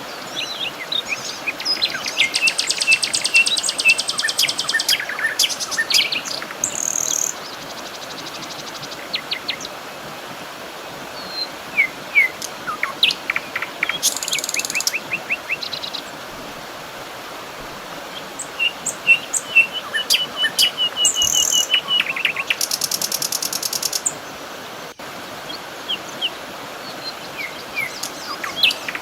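Several birds singing: short high chirps and whistles mixed with rapid high trills a second or two long, over a steady background hiss.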